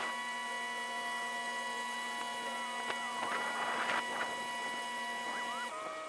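A narrowboat's engine, heard as a steady, high-pitched hum of several held tones because it is played at twenty times speed, with short rattly bursts in the middle. Near the end the tones jump to new pitches, as the engine speed changes.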